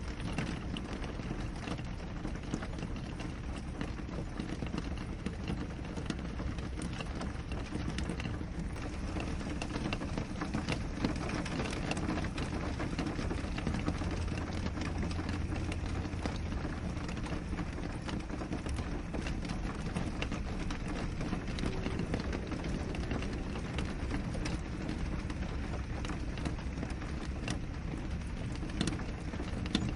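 Steady rain on a window: an even, deep wash of rainfall with many small drops ticking sharply against the glass.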